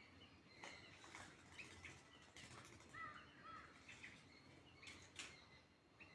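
Faint outdoor bird calls: several short, harsh calls spread through, with a brief twittering chirp about three seconds in.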